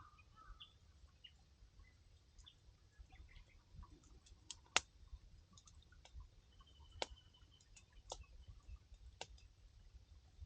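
Wood campfire crackling: a few scattered sharp pops, the loudest about five seconds in. Faint bird chirps in the first second.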